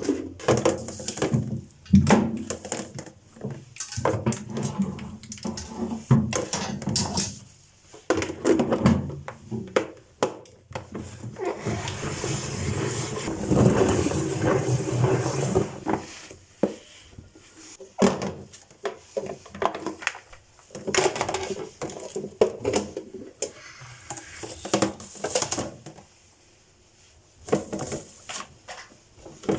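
Kitchen handling sounds from preparing and storing fresh greens: irregular clicks, knocks and rustling of leaves and containers, with a steadier rushing noise for a few seconds near the middle.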